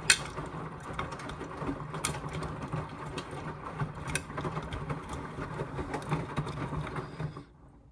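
Indesit washing machine drum turning a load of down jackets through rinse water: a steady motor hum with sloshing and scattered clicks and knocks from the drum. It stops about seven seconds in as the drum pauses between turns.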